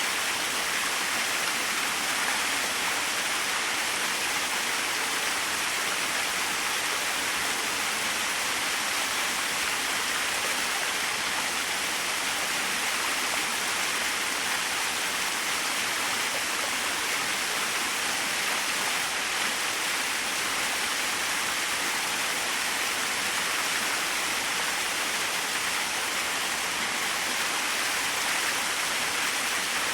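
Small waterfall splashing steadily, an even hiss of falling water without a deep roar.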